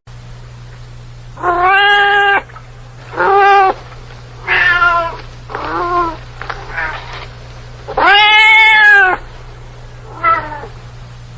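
Domestic cat meowing repeatedly: about six separate meows, mostly short, with one longer, louder meow about two-thirds of the way through. A steady low hum sits underneath.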